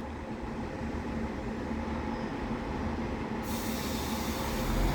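Northern Class 156 diesel multiple unit pulling away from the platform, its engine rumble building steadily. A hiss joins about three and a half seconds in.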